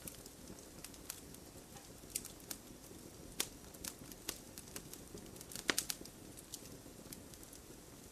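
Wood fire crackling in a fireplace: irregular sharp pops and snaps over a low steady hiss, with a quick cluster of louder pops about three-quarters of the way through.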